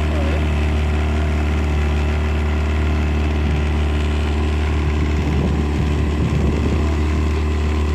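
Outboard motor running steadily under load, driving a yacht through the water, with a constant low drone.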